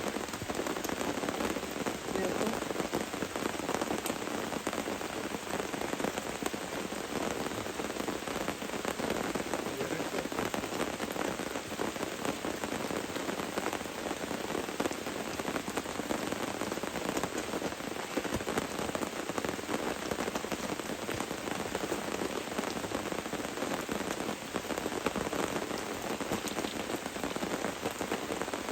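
Steady rain falling, with a dense run of individual drops hitting surfaces.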